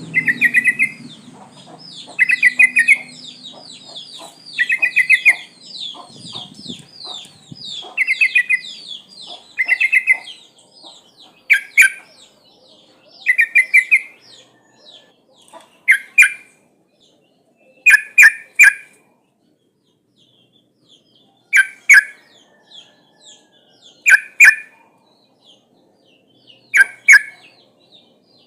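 Yellow-vented bulbul (trucuk) calls, presented as a female calling for a male: short bubbly bursts of quick notes repeated every second or two. A rapid run of falling higher notes goes on through the first third, and sharper clipped calls come in later.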